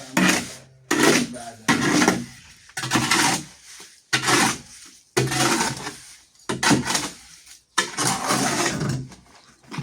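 A metal hand tool scraping through wet cement mortar in quick repeated strokes, about one a second, each starting sharply and trailing off.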